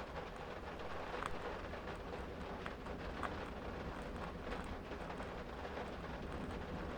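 Steady, soft wind noise with a deep rumble, dotted with irregular small crackles from a burning candle wick.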